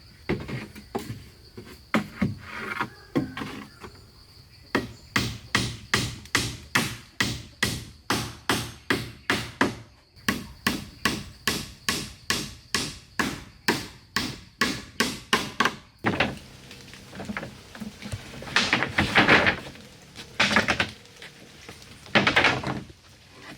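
Rapid, evenly spaced strikes on wood, about two or three a second, with a hand tool. After about sixteen seconds they give way to slower strokes of a hand saw cutting wood. A faint steady insect trill is also heard in the first part.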